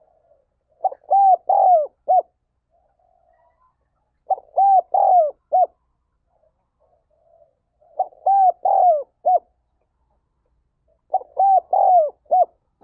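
Spotted dove calling: four phrases spaced about three seconds apart, each a quick run of three or four coos.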